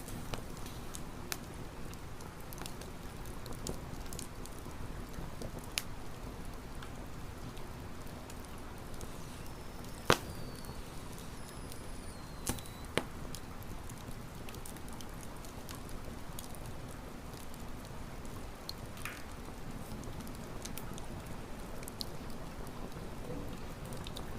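Wood campfire burning: a steady low hiss of the flames with scattered sharp crackles and pops, the loudest pop about ten seconds in.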